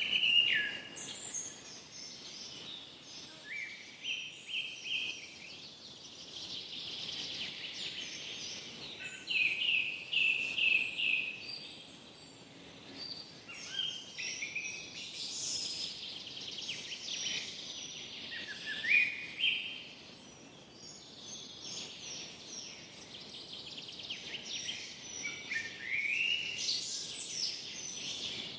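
Forest ambience: several songbirds singing and chirping in repeated short phrases and trills, over a soft steady hiss.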